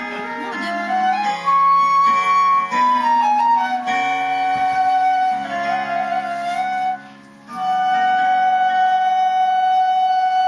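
Baroque wooden transverse flute (traverso) playing a slow melody of held notes over a lower accompanying part, with a brief break about seven seconds in before a long held note.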